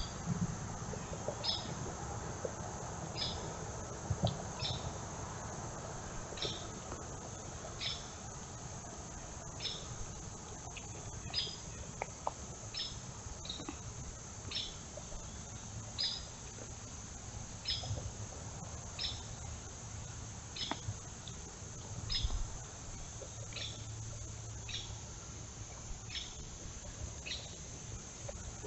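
A bird repeating a short, high, slightly falling call about once a second, over a steady high-pitched insect drone.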